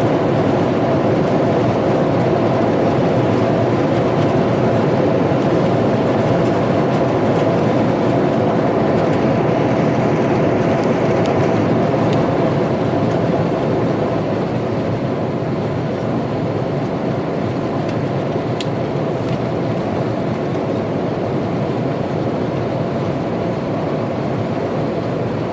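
Airliner cabin noise on an Airbus A321: the steady rush of engines and airflow with a faint constant hum, easing off slightly about halfway through.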